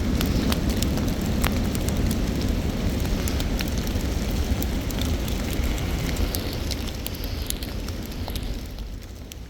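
Wind buffeting the microphone in a snowstorm: a steady low rumble with many scattered sharp crackling ticks, easing off near the end.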